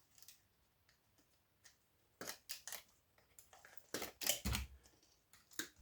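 Scattered sharp snips and clicks of hand tools cutting wire and working loose parts inside a microwave being stripped for scrap, with a dull thump about four and a half seconds in.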